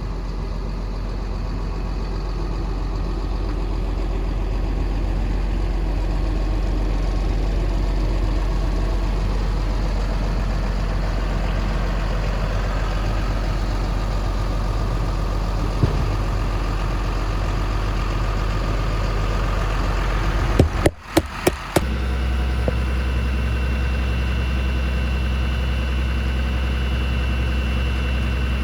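Cummins ISB 6.7-litre turbo diesel of a Ford F750 bucket truck idling steadily. About 21 seconds in the sound drops out briefly with a few clicks, then the idle resumes with a steady high whine added.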